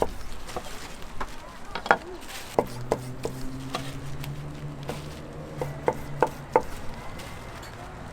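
Knife chopping sundae on a cutting board: irregular sharp knocks, with a quick run of strikes about six seconds in. A low steady hum sits under the middle of it.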